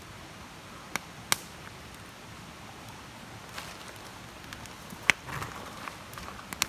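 Wood campfire burning: a soft steady hiss with scattered small crackles and a few sharp pops, the loudest about five seconds in.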